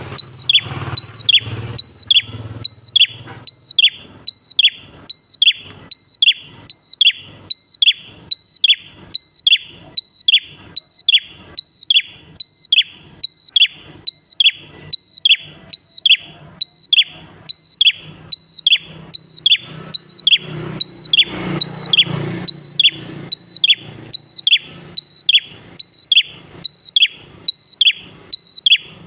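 A prinia (prenjak klawu) calling over and over, about three notes every two seconds, each a short high note that drops steeply in pitch, with a faint low rumble behind it near the start and again about two-thirds through.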